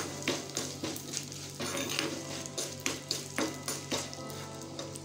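Tempering of mustard seeds, dried red chillies and curry leaves sizzling in hot oil in a kadai, with a steel spatula scraping and clinking against the pan in repeated irregular strokes as it is stirred.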